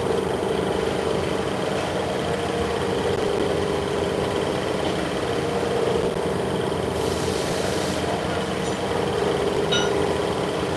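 Steady hum of workshop machinery running, with a brief hiss about seven seconds in.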